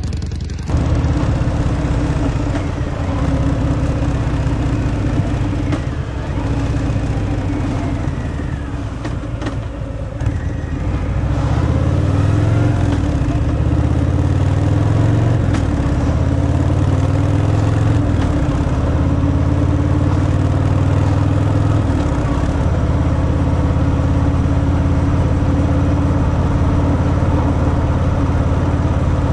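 Harley-Davidson Fat Boy V-twin on its stock exhaust, running. From about a third of the way in, its pitch climbs and drops several times as it pulls through the gears, then it settles into a steady cruise.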